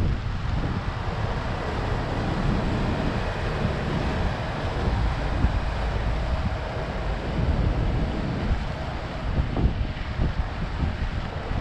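Wind buffeting the microphone with a fluttering low rumble, over a steady wash of city street and traffic noise.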